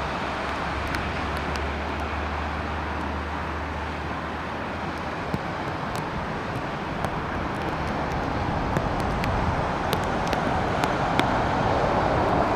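Jet engine noise of a Boeing 737 MAX 8 with CFM LEAP-1B engines, a steady rushing sound that grows louder over the last few seconds as the aircraft comes closer.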